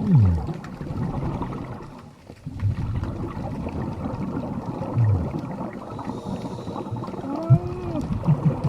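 Underwater recording of a scuba diver's exhaled regulator bubbles gurgling and rumbling, with a few low thumps and a couple of short, arching moan-like tones near the end.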